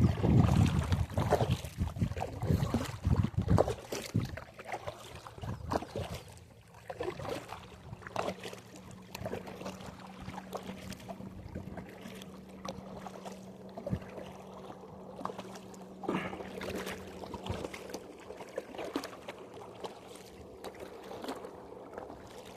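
Wind buffeting the microphone, heaviest in the first few seconds, then a steady low motor hum with scattered small knocks and clicks.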